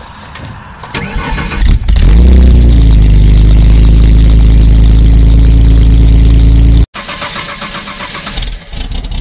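Ford Taurus 3.0-litre V6 cold starting after sitting for a month or two: the starter cranks it for about two seconds, it catches with a brief flare in revs, then settles into a steady, loud fast idle. The sound cuts off abruptly about seven seconds in and comes back quieter and rougher.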